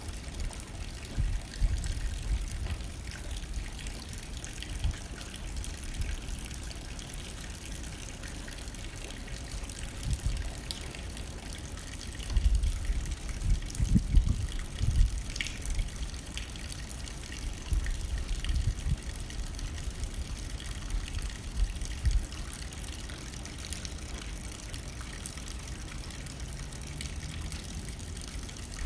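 Steady rain hitting a window pane, with gusts of wind that swell and fade irregularly, strongest around the middle.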